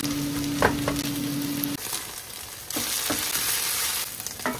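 Fried rice sizzling in a cast-iron skillet as a wooden spatula stirs and scrapes it. A low steady hum runs under the sizzle and stops a little under two seconds in; the sizzle then comes back louder near the three-second mark.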